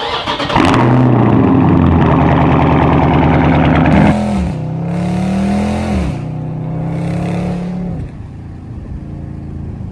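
Dodge Scat Pack's 6.4-litre HEMI V8 accelerating hard, heard from inside the cabin. It revs up through the gears, with upshifts about four and six seconds in, then eases off to a lighter cruise near the end.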